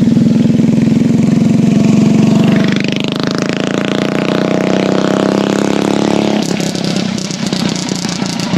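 Mini bike's small single-cylinder engine running loud at speed, its pitch climbing from about three seconds in. About six and a half seconds in the steady tone gives way to a rougher, crackling sound.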